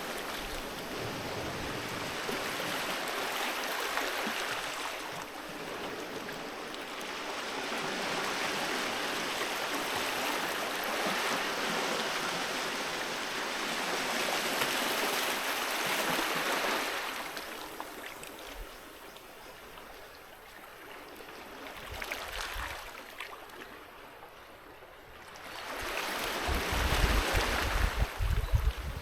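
Sea waves washing onto a beach, surging and drawing back in slow swells. A quieter lull comes about two-thirds of the way through, then a louder wave breaks near the end with a low rumble.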